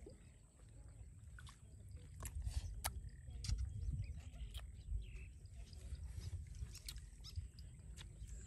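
Uneven low rumble of wind on the microphone, with scattered light clicks and rustles of grass being handled.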